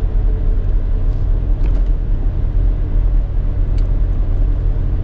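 Steady low rumble of a car driving along the road, heard from inside the cabin, with a couple of faint ticks.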